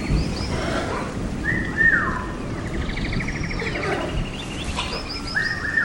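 Birds whistling and chirping: buzzy trills, whistles that fall in pitch and quick high chips, repeated several times over a steady rushing noise.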